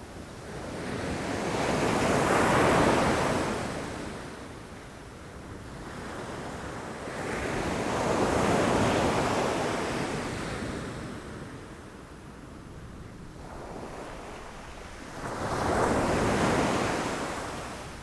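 Ocean waves breaking against rocks: three waves surge and crash, about a second and a half to three seconds in, around eight to ten seconds in, and near the end, with the hiss of washing surf between them.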